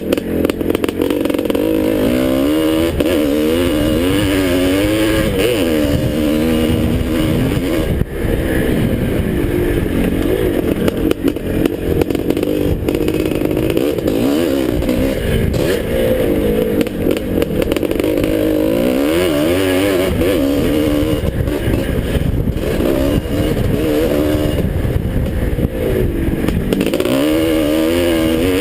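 Two-stroke motocross bike engine racing around a dirt track, its pitch climbing and dropping every second or two as the rider opens and closes the throttle, with a rough rushing noise underneath.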